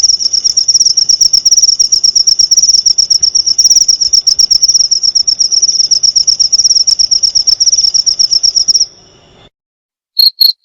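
Cricket chirping in a fast, unbroken pulsing trill that fades out about nine seconds in; after a brief silence a second cricket starts, with slower, lower chirps about two a second.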